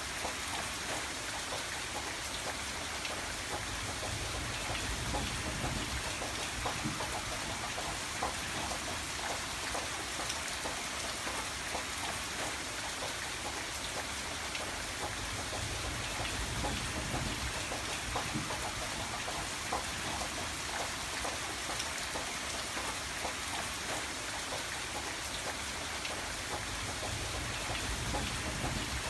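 Steady rain falling, a dense patter of drops hitting surfaces, with a low rumble underneath that swells and fades a few times.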